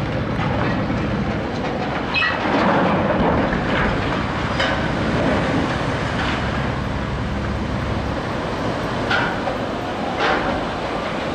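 A ship sliding down the slipway at its launch: a steady rumble with a few brief high squeals.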